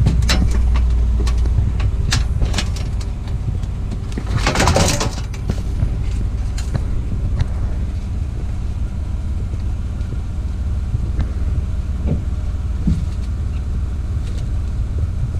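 A motor vehicle running with a steady low rumble, with scattered knocks and clatter and a short, louder burst of noise about four and a half seconds in.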